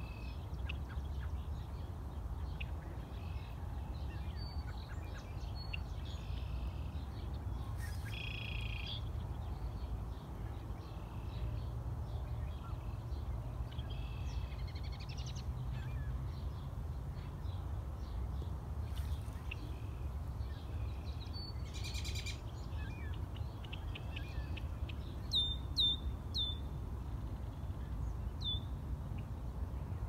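Several small birds calling and singing, with scattered chirps and short song phrases. Near the end come three quick, clear whistled notes that fall in pitch. A steady low rumble runs underneath.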